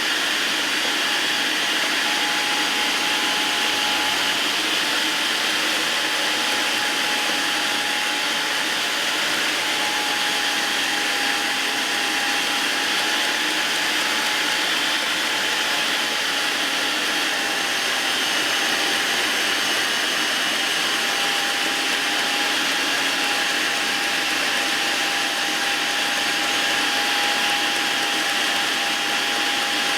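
GoWise 800-watt electric meat grinder running steadily, grinding carrots through its coarse plate: a loud, even motor noise, about like a hand vacuum, with a steady whine.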